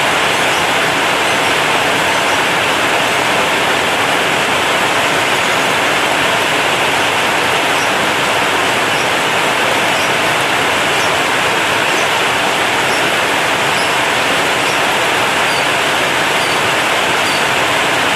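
Heavy rain falling steadily on a corrugated zinc roof: a dense, even rush with faint scattered ticks of individual drops.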